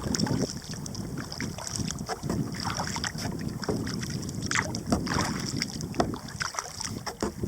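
Wind buffeting the microphone with a steady low rumble, mixed with the irregular splashes of a kayak paddle dipping into the water.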